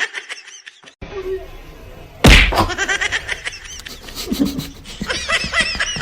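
A sudden loud smack about two seconds in, then a run of quick, high-pitched chirping sounds.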